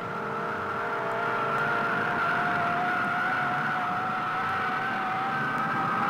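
A high, steady engine whine, creeping slowly up in pitch, over a broad rushing roar.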